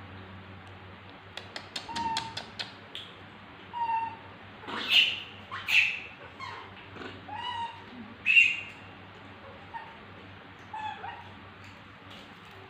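Baby monkey's short, high-pitched squeaking calls, several in a row with the pitch bending, loudest about five, six and eight seconds in. A quick run of sharp clicks comes just before the calls.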